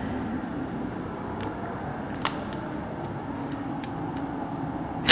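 A few faint clicks of hand tools being handled over a steady low shop background, then a sharp loud knock right at the end.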